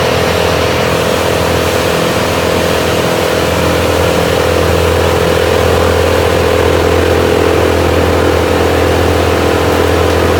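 Tree chipper's engine running steadily at high speed, getting slightly louder about halfway through.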